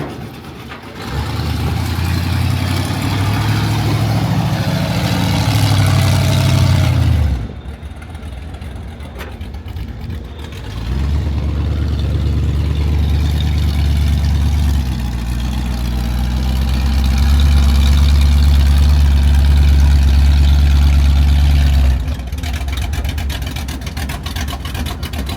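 Heavy vehicle engine running, loud and low, swelling about a second in, falling away for a few seconds about seven seconds in, then running hard again until it eases off near the end.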